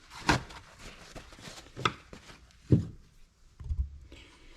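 A few separate sharp knocks and clicks, with a duller thump near the end, as parts and tools are handled and set down on a workbench.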